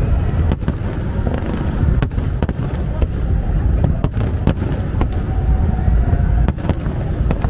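Large aerial fireworks display in full barrage: a continuous heavy low rumble of shell bursts with many sharp bangs and crackles at irregular intervals.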